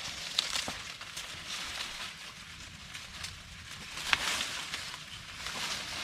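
Dry corn leaves and husks rustling and crackling as ears are picked by hand, with a sharp snap about four seconds in.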